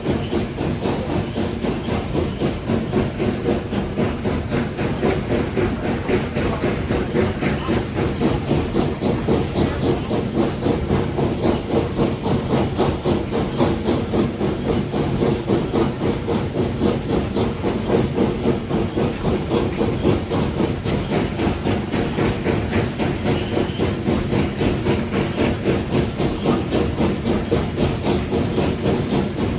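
Nevada Northern No. 81, a 2-8-0 steam locomotive, heard from inside the cab while running: continuous steam hiss under a steady, even exhaust beat, with rail noise beneath.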